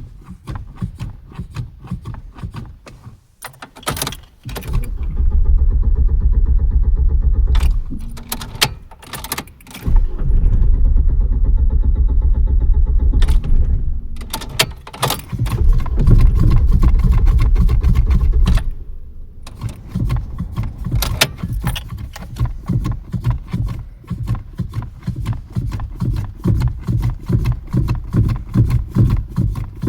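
Car engine being cranked on a hard start: three long cranking attempts of a few seconds each, with gaps between them, then quieter uneven pulsing from the engine near the end.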